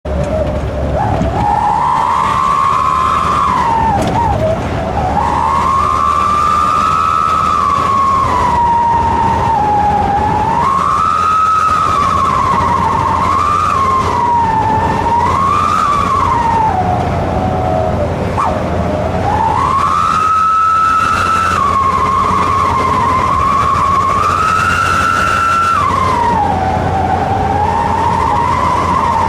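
Vehicle exhaust fitted with a 'srigala' (wolf) whistle, giving a loud, siren-like howl that rises and falls in pitch with the revs over the engine's low running note. The howl dips low about 18 seconds in, then climbs again.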